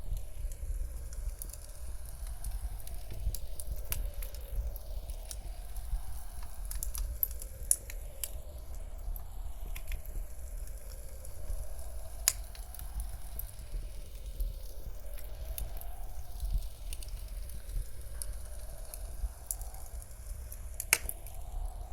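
Wood fire crackling with scattered sharp pops, a few louder than the rest, over a steady low rumble of blizzard wind. The mix slowly swirls as if circling the listener.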